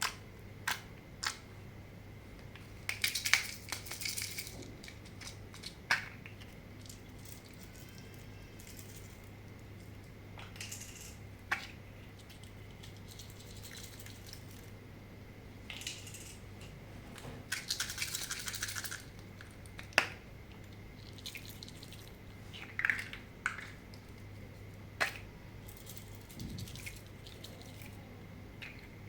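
Slime being mixed and pressed by hand: scattered sticky clicks and pops, with two longer crackly stretches, over a low steady hum.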